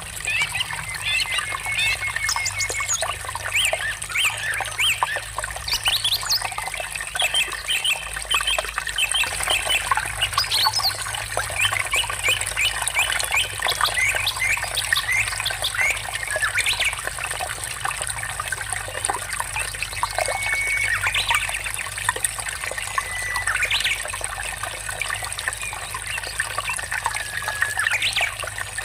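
Water trickling and babbling steadily, with birds calling now and then through it, including a few short whistled notes.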